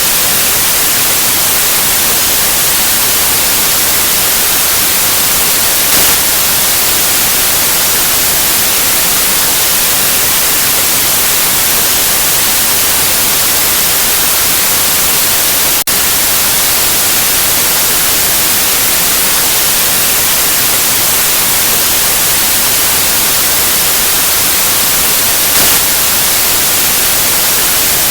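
Steady white noise: a loud, even hiss with no tones or rhythm, brightest in the high end. About halfway through it dips for a split second.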